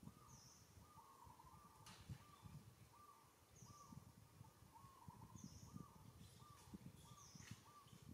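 Faint birds calling in the background: one bird repeats a short note roughly every half second to second, with a higher chirp now and then, over a low rumble.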